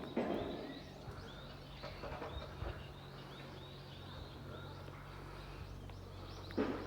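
Small birds chirping: many short, high calls, one after another, over a steady low hum. There is a brief noisy burst about a quarter second in and another near the end.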